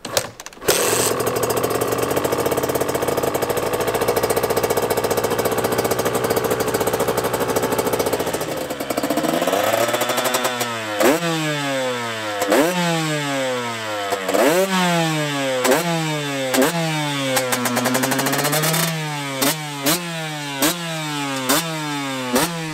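Two-stroke KTM EXC engine starting on its first start after an engine rebuild. It catches about a second in and runs at a steady fast idle. From about ten seconds in it is revved in repeated short blips, each rising and falling, roughly one a second.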